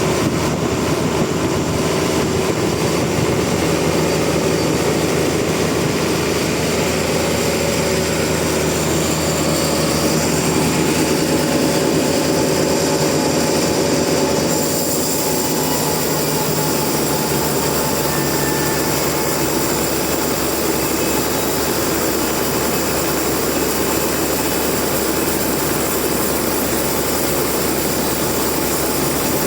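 Sawmill machinery running steadily with a loud, even drone carrying several steady tones. The sound changes and drops slightly about halfway through.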